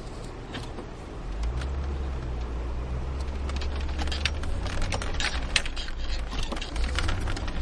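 Car cabin noise while driving in snow: a low engine and road rumble that grows louder about a second in, with many scattered sharp ticks over it.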